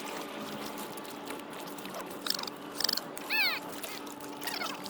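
Birds giving a few short, downward-sliding cries, the clearest a little past the middle, over a steady outdoor hiss.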